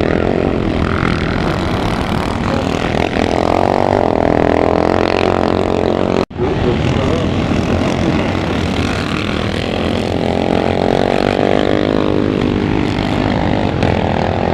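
Motocross motorcycle engines racing, their pitch rising under acceleration around three to five seconds in and swelling up and falling away again around nine to twelve seconds as a bike passes. The sound cuts out abruptly for an instant about six seconds in.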